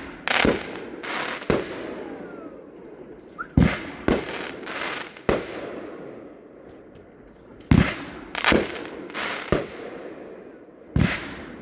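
Consumer aerial fireworks cake (repeater) firing a string of shots, a loud report every second or two, each fading away after the break.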